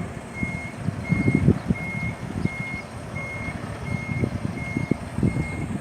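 Tractor-trailer's reversing alarm beeping steadily as the truck backs up, a single high tone about three beeps every two seconds, over an uneven low rumble.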